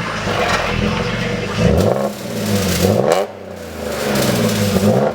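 Audi S4's supercharged 3.0 V6 with its mufflers deleted, revved up and let fall back to idle about three times, its pitch climbing and dropping with each blip.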